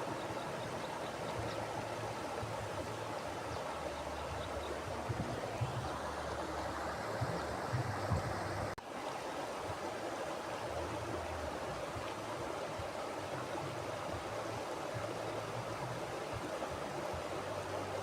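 Mountain river flowing: a steady rush of water with a low rumble underneath, briefly dipping in level about nine seconds in.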